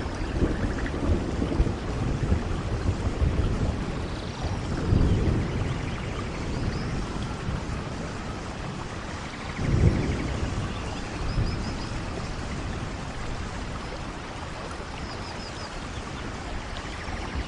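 Steady rushing noise, like rain, with low rumbles about five and ten seconds in and a few faint high chirps.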